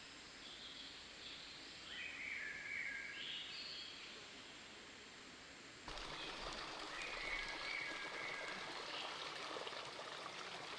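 Outdoor ambience with short chirping bird calls. About six seconds in, it switches suddenly to the steady rush of running water, with chirps still over it.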